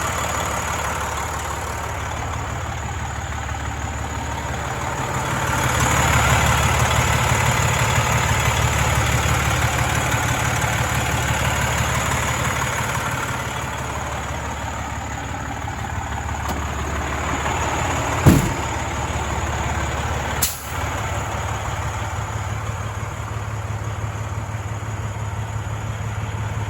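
Heavy truck diesel engine idling. Engine speed rises about five seconds in, holds for several seconds, then settles back to idle. Two short sharp knocks or clicks come later, a couple of seconds apart.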